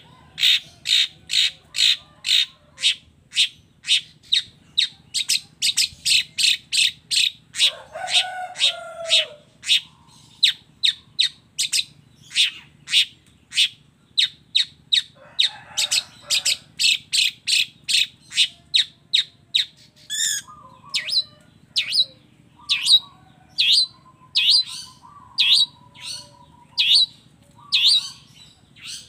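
Long-tailed shrike (cendet) song: a fast, even run of sharp, high, repeated chirps at about two a second. A lower, harsher call breaks in twice, and the notes come more slowly and spaced out near the end.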